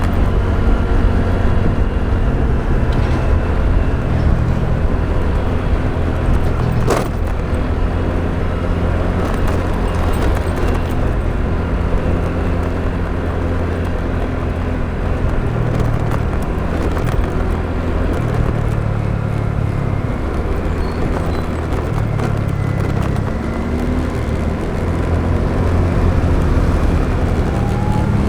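Motorbike riding along a road: the engine runs while wind and road noise fill in, and its low pitch steps up and down as the rider changes speed. One sharp click comes about seven seconds in.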